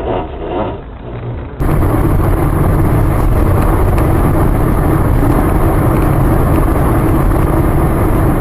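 Steady road and engine rumble of a moving car as picked up by a dash cam. It starts abruptly about a second and a half in, after a thinner-sounding stretch of vehicle noise.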